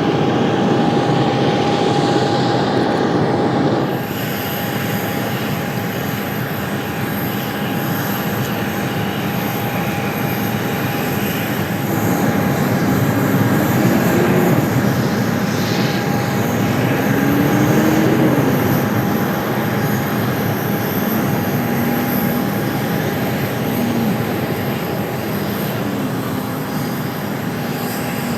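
Aircraft engines running: a steady wash of engine noise with a constant whine. The sound changes abruptly about four seconds in.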